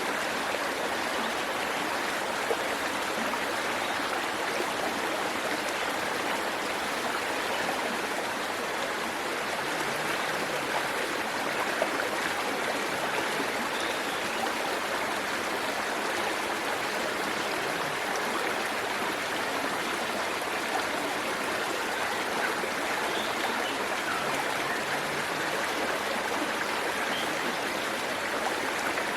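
Waterfall and stream water rushing and splashing over rocks in a steady, unbroken wash.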